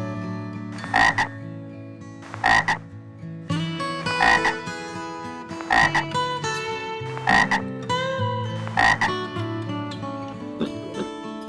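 An animal giving six short calls, about one every one and a half seconds, over background guitar music.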